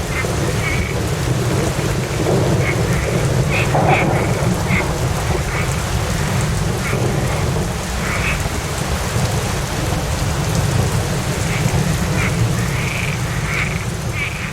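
Steady rain with a continuous low rumble of thunder beneath it. Short high chirps come through here and there.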